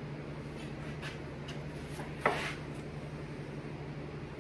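Workbench drawer panel knocked down once, sharply, a little over two seconds in, after a few light taps as the parts are handled. A steady low hum runs underneath.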